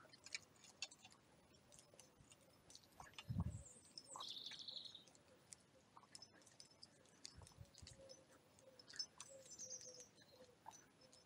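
Near silence with faint birdsong: a few short high chirps from small birds now and then. A brief low thump comes about three seconds in.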